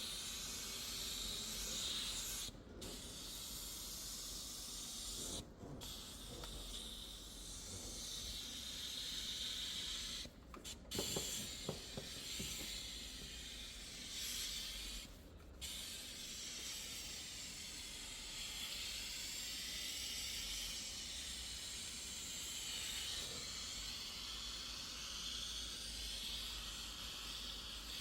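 Steady hiss of a pressurised spray or air jet from a detailing tool, briefly cut off four times as the trigger is released, with a few light knocks in the middle.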